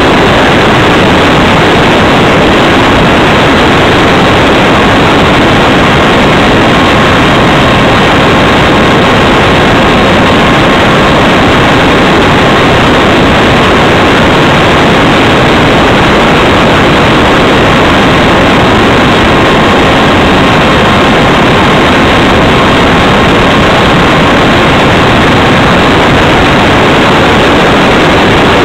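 Loud steady rush of wind buffeting the microphone of a camera riding on a Radjet 800 electric RC plane in flight, with a faint steady whine from its electric motor and propeller underneath.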